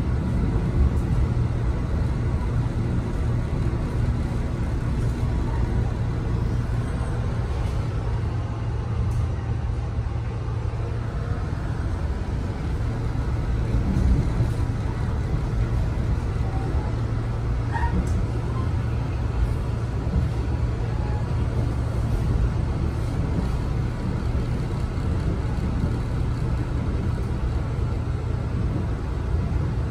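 Inside a Metro-North M3A electric railcar under way: a steady low rumble from the moving train.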